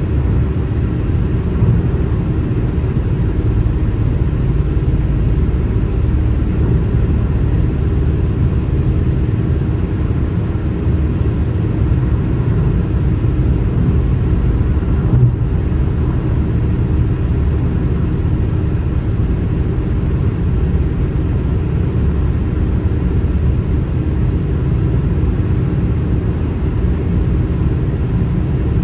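Steady low road rumble of a car driving on the highway, heard from inside the cabin, with no rise or fall. A faint brief tick comes about halfway through.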